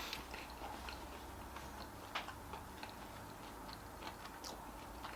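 Faint chewing: a person eating, with irregular small clicks and mouth smacks over a low steady room hum.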